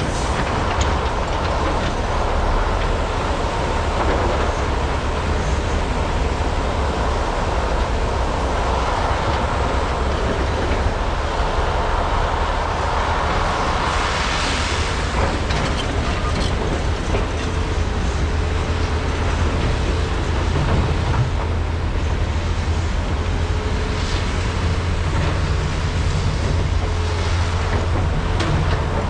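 Large hydraulic excavators' diesel engines running steadily under load while digging and loading, a deep constant rumble with mechanical noise over it, a little noisier about halfway through.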